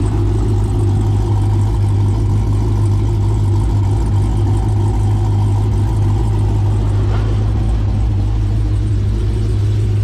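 Car engine and road noise while driving: a steady low drone that holds even throughout.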